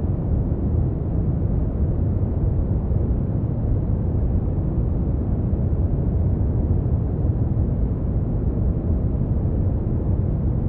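Brown noise: a steady, deep rumbling hiss, strongest in the low end and fading toward the highs, with no change in level.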